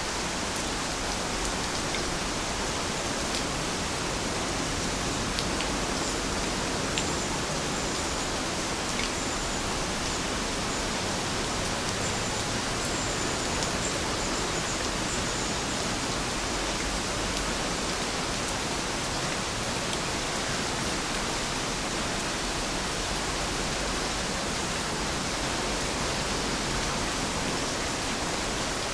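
Heavy rain falling steadily, an even wash of noise with scattered sharper drop ticks.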